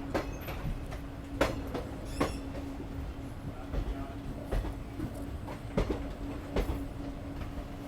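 Moving passenger train heard from on board: steady running noise with a constant hum, and sharp wheel clacks over rail joints coming about once a second at uneven spacing.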